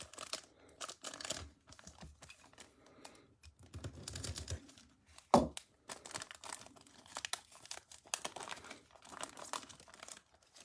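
Foil wrapper of a Bowman Platinum trading-card pack crinkling and tearing as it is opened, with a loud sharp snap about five seconds in.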